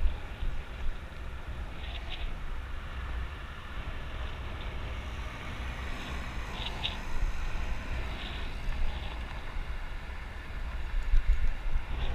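Wind buffeting the microphone of a bicycle-mounted GoPro, a heavy uneven rumble over steady road and tyre noise, with a few brief high ticks.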